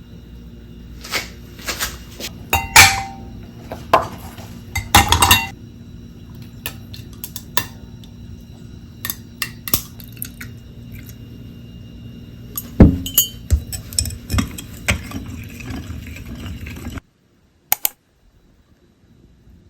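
Dishes and cutlery clinking and knocking, a string of separate sharp clinks with the loudest about 3, 5 and 13 seconds in, over a steady low hum that cuts off suddenly about 17 seconds in.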